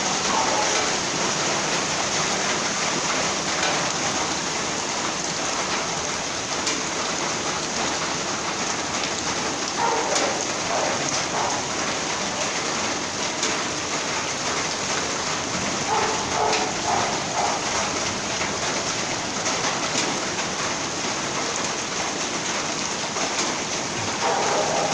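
Heavy rain pouring down steadily on hard surfaces.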